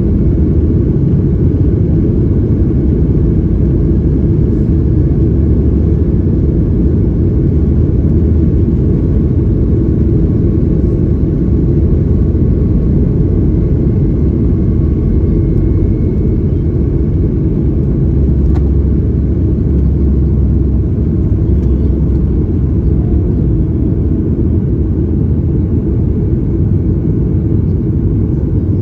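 Steady low rumble inside the cabin of a Boeing 737 MAX 8: engine and airflow noise holding at an even level.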